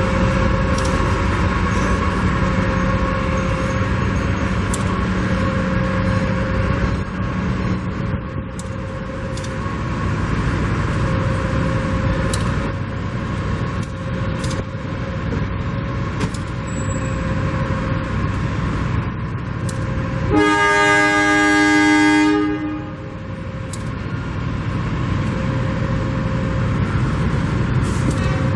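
A train running past with steady rumbling rail noise, and one train horn blast of about two seconds around twenty seconds in.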